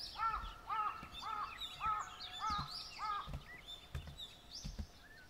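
Birds calling: a quick run of about six repeated calls over roughly three seconds, with fainter high chirps behind them.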